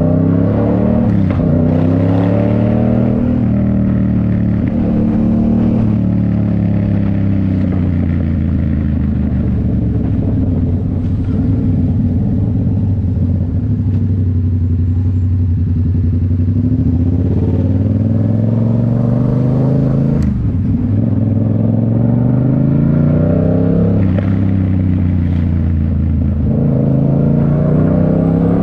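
2019 Yamaha MT-07's parallel-twin engine through a Toce full exhaust, ridden on the road: the exhaust note climbs as it accelerates and drops back, holds a lower steady note through the middle, dips sharply about two-thirds in, then climbs again near the end.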